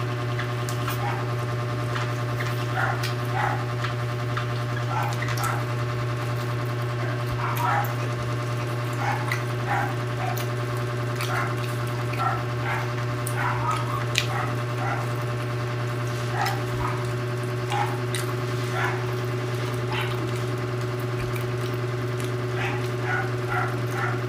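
A man eating a banana: soft, scattered chewing and mouth sounds over a steady low hum.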